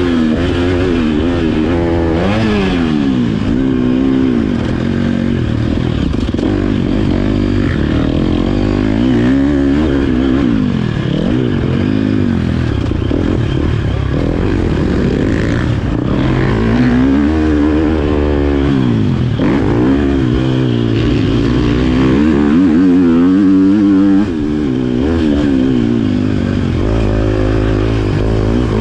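Motocross bike engine being ridden hard, its pitch climbing and dropping again and again as the throttle opens and closes through gear changes.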